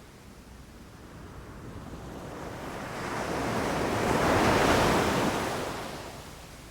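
Sea waves on a beach: one wave builds, breaks and washes up in a swell of hissing surf about four to five seconds in, then drains away, with a low rumble of the sea underneath.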